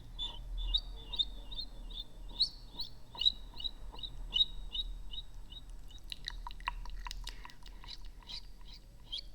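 ASMR mouth sounds close to the microphone: a quick run of short wet clicks and smacks, several a second, some with a small squeak, turning sharper and crisper about six seconds in.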